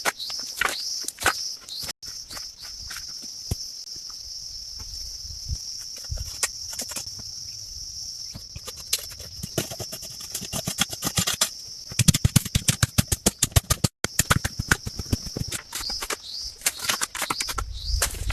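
Steady high insect shrilling, like crickets, with short repeated chirps. Partway through comes a quick run of sharp knocks, the loudest sound.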